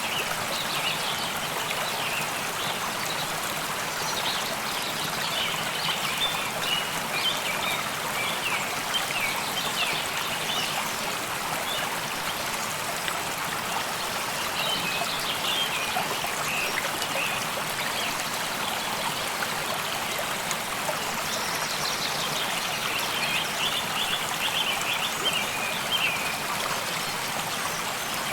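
A stream running steadily. Over it come several bouts of rapid, high trilling calls from small animals.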